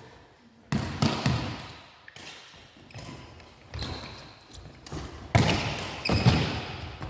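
A volleyball being struck and bouncing on a gym floor: several sharp, hollow smacks a few seconds apart, each ringing out briefly.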